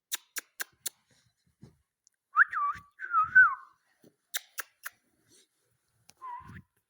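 Ringneck parakeet whistling: two short phrases of notes sliding up and down, with sharp clicks before and after and a short call near the end.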